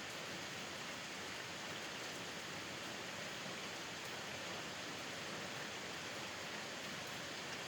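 Steady rainfall heard from a porch, an even hiss of rain on surfaces with no let-up.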